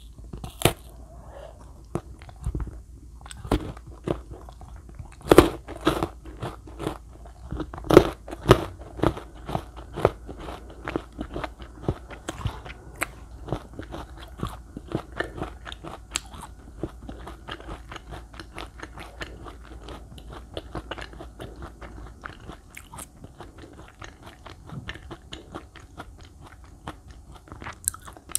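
KitKat chocolate-covered wafer bar being bitten and chewed close to the microphone, with crisp crunches of the wafer. The loudest crunches come in the first third, then settle into softer, steady chewing.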